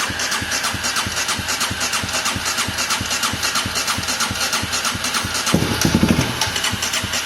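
Polaris Predator 500's single-cylinder engine being turned over on the electric starter, chugging evenly at about five compressions a second without catching, with one louder, deeper burst about five and a half seconds in. The engine will not start on its own, which the owner puts down to a fuel problem.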